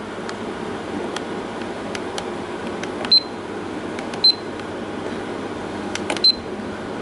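Button presses on an electronic weather-station display: faint clicks and three short, high single beeps about three, four and six seconds in, over a steady background noise.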